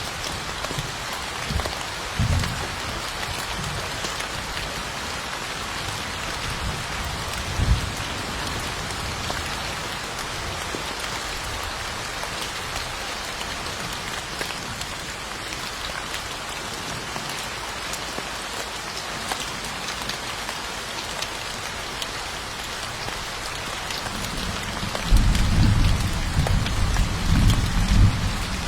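Steady rain hissing, with low thunder rumbles: short ones about two and eight seconds in, and a longer, louder rumble near the end.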